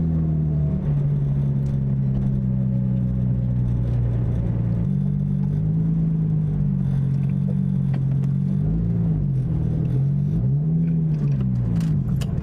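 Nissan 350Z's V6 engine heard from inside the cabin, its pitch settling down to a low, steady running speed as the car rolls slowly, with a few brief rises and falls in revs in the second half. A cluster of clicks comes near the end, and the engine note stops right at the end.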